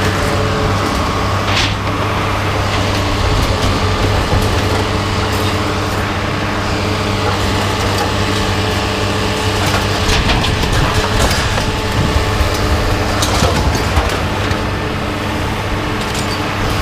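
A vehicle engine running steadily, with scattered metallic clanks and knocks over it.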